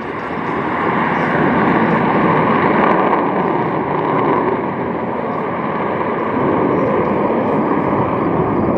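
Jet engine noise from the Blue Angels' F/A-18 Super Hornets in flight: a loud, dense rush that swells over the first couple of seconds and then holds steady, with a faint steady whine running through it.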